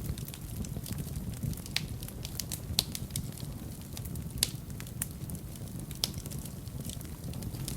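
Wood fire burning in a fireplace: a low, steady rumble of flames with irregular crackles and sharp pops from the burning logs. The loudest pops come about a third, halfway and three-quarters of the way through.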